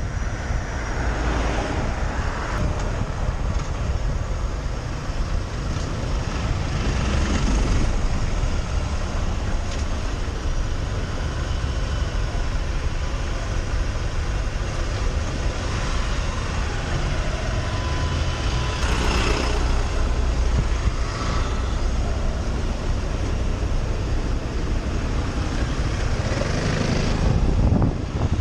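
Motorcycle riding sound: wind rushing on the camera microphone over the rumble of the engine, with other vehicles swelling past several times.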